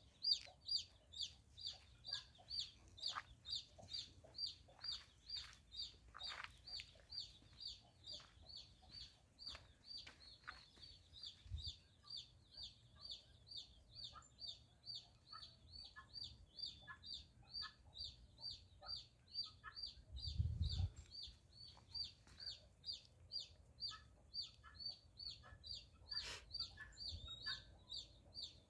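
Chicks peeping, short high peeps repeated about three times a second, with softer cheeps among them. There is a brief low thump about two-thirds of the way through.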